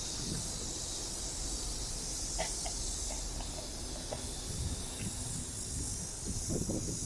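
A chorus of summer cicadas buzzing steadily and high-pitched, easing off a little in the second half, over a low rumble.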